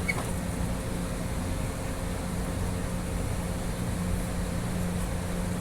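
Steady low mechanical hum with a faint, even higher tone above it and a small click just after the start.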